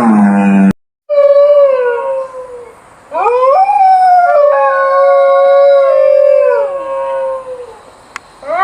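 A cow's moo cuts off under a second in, followed after a short gap by canine howling: one long howl sliding downward, then several long howls overlapping, from at least two animals. A fresh howl begins near the end.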